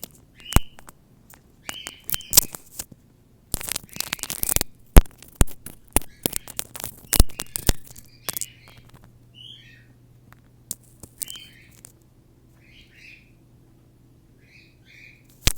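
Cockatiel giving short, soft chirps again and again, among sharp clicks, with a burst of dense rustling or crackling noise about four seconds in.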